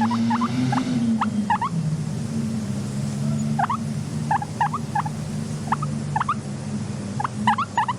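Guinea pig squeaks: short, quick rising chirps coming in small clusters every second or so, thickest near the end, over a steady low hum.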